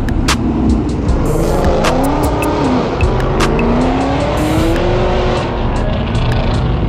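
Car tires squealing in a wavering pitch that rises and falls, starting about a second and a half in and fading near the end, over a running engine.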